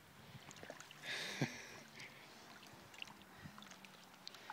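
Faint lapping and splashing of river water around a kayak, with one short splash about a second in.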